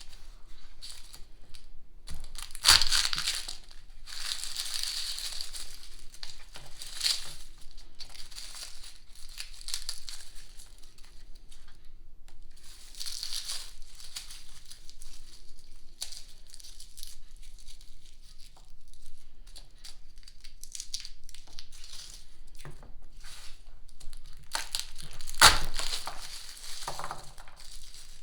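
Papery garlic skins crinkling and crackling as garlic is broken apart and peeled by hand, with two louder cracks, one a few seconds in and one near the end.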